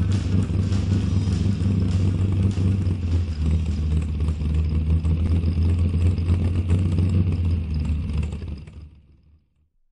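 1957 Cadillac's V8 engine running steadily with a deep exhaust note, fading away near the end.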